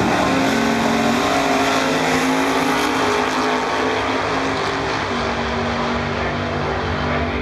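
Drag-race car engine running at a loud, steady fast idle, with a short rise in pitch at the start.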